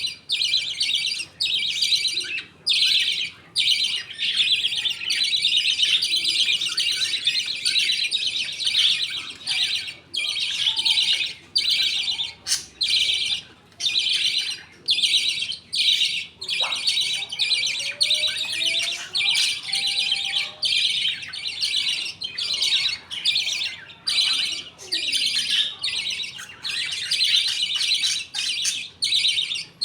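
A colony of budgerigars chirping and chattering continuously, with many high chirps overlapping and only brief pauses.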